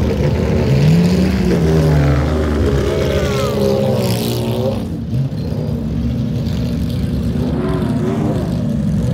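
Race car engine running steadily with a deep drone, its revs rising and falling once about a second in.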